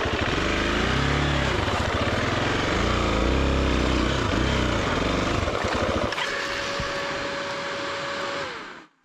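Enduro dirt bike engine revving up and down in short bursts while picking its way up a rocky rut. About six seconds in the deep engine note drops away, leaving a steady higher tone that fades out just before the sound cuts off.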